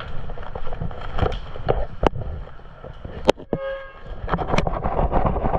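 Rustling movement and wind noise on the microphone, broken by three sharp cracks, with a short steady pitched tone just after the second crack.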